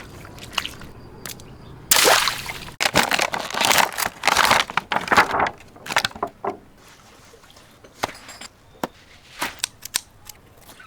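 A water-filled stretchy toy bursting suddenly about two seconds in, followed by a few seconds of water gushing and splashing out in irregular surges, then a few scattered drips and splats.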